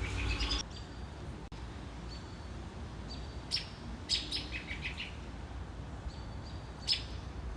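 Wild birds chirping: quick runs of sharp high chirps about three and a half seconds in, again just after four seconds and near the end, with thin single whistled notes between them.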